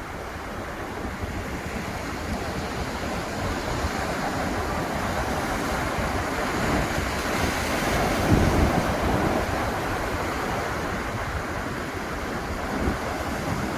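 Ocean surf: waves washing continuously onto the beach, one wave breaking and swelling to its loudest a little past the middle, then easing off.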